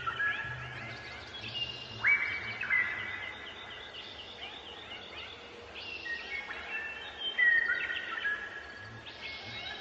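Several small birds chirping and twittering, their quick gliding calls overlapping, with sharper, louder chirps about two seconds in and again near seven and a half seconds.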